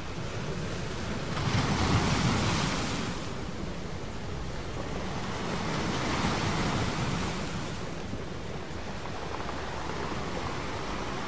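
Ocean waves washing in, a steady surf hiss with two slow surges: the louder one about a second in, a second one around five seconds in.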